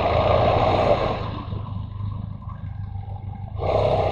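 Motorcycle engine running steadily under a wide rush of wind noise over the microphone, loud in the first second, easing off, then loud again near the end.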